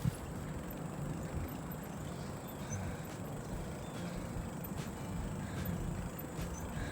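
Low, steady rumble of wind on the microphone and tyre noise from a bicycle rolling along a trail, with a few faint clicks from the bike.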